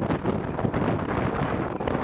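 Wind buffeting the microphone out of the side of a moving express train, over the steady running noise of the passenger coaches' wheels on the track.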